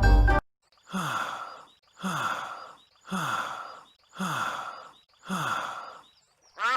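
A cartoon character's breathy sigh with a falling pitch, repeated five times about once a second, the same sigh looped over and over. A burst of mallet-percussion music cuts off just before the first sigh.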